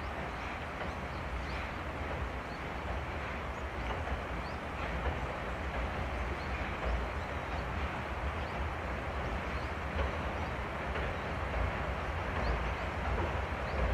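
Oigawa Railway steam-hauled express train moving slowly, a steady rumble and rushing noise that grows slowly louder.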